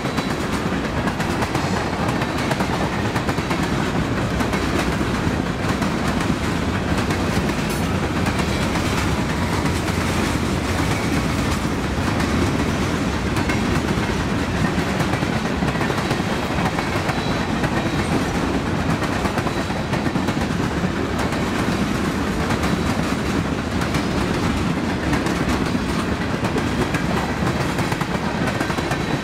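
Freight train's tank cars and boxcars rolling past, a steady rumble of steel wheels on rail with a continuous clatter.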